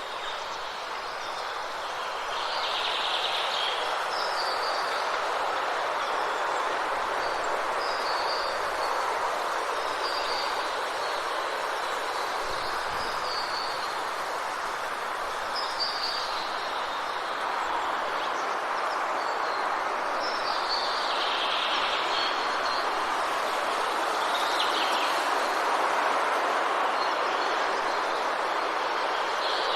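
Steady rushing forest ambience, with a bird repeating short high chirps every second or two.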